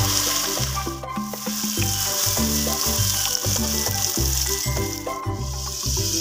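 Background music with a steady rhythmic bass line, over the sizzle of sliced tomatoes and fried onions in hot oil in a cooking pot. The sizzle is strongest near the start and again near the end.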